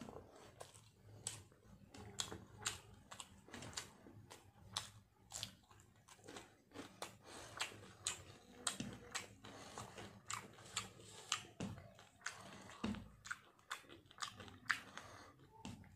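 A person chewing a mouthful of rice and fried bata fish eaten by hand, with a close run of short sharp mouth clicks, two or three a second.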